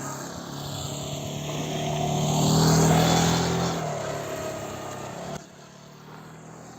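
Motorcycle engine passing close by, growing louder to a peak about three seconds in and then fading away. The sound drops off abruptly a little after five seconds.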